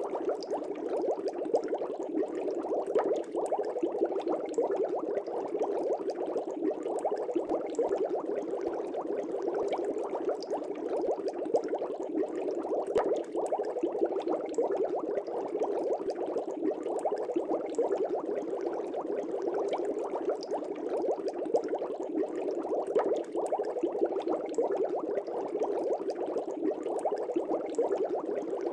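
Air bubbles streaming up through a fish tank, a steady dense bubbling and gurgling with fine pops, unchanging throughout.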